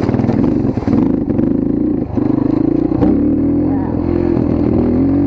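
Dirt bike engine running under throttle while riding, its note shifting in pitch, with a brief dip about two seconds in before it picks up again.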